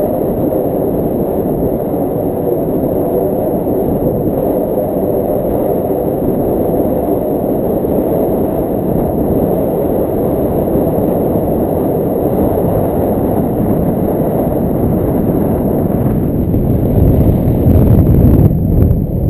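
Wind rushing over the microphone in flight, a steady loud rumble without any pitched tone. It grows heavier and louder near the end.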